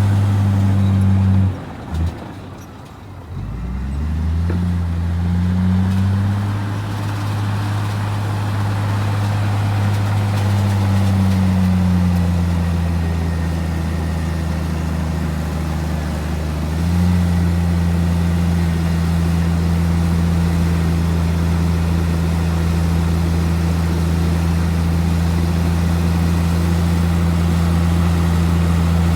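Heavy diesel engine of earthmoving machinery running loud and low; it drops away briefly about two seconds in, climbs back up in pitch, then settles into a steady run.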